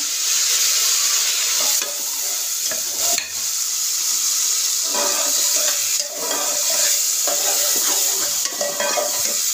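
Chopped tomatoes and green chillies sizzling in hot ghee with browned onions in an aluminium pot, while a metal slotted turner stirs and scrapes against the pot. The sizzle is steady, with a run of scraping strokes in the second half.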